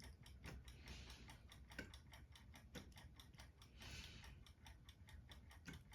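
Near silence with faint, rapid, even ticking, several ticks a second.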